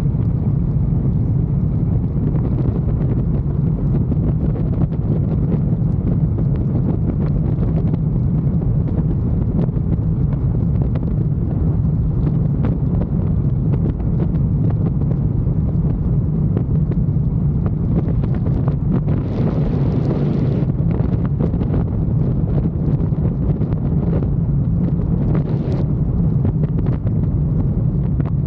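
Motorcycle engine running steadily on the move, with wind rushing over the microphone. A brief louder hiss comes about two-thirds of the way through.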